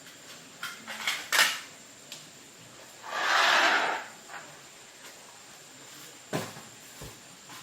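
Clicks and knocks of small hard objects being handled, with a hiss lasting about a second midway and another knock near the end.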